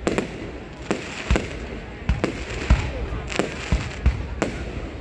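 Fireworks going off: a string of sharp booms at irregular intervals, roughly one or two a second, each with a short echoing tail.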